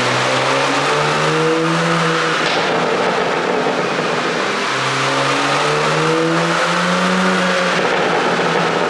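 Porsche Panamera 4 E-Hybrid's twin-turbo V6, running an aftermarket pop-and-bang ECU tune, revving hard. Its pitch climbs in steps twice, falling back in between.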